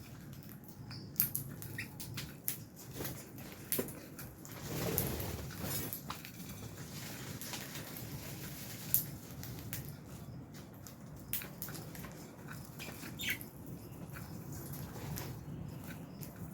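Lovebirds flapping their wings, with scattered sharp clicks and taps and a few short chirps.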